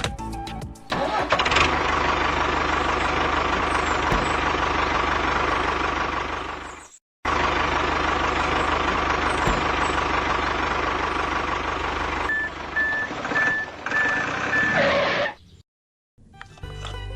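A small motor running loudly and steadily with a constant whine. It cuts out for a moment about seven seconds in, starts again, and stops about fifteen seconds in. Near the end a high tone pulses on and off over it.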